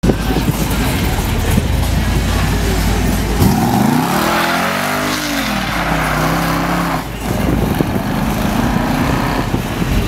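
Car engines running with a deep, steady rumble; about three and a half seconds in, one engine revs up and falls back. People's voices are mixed in.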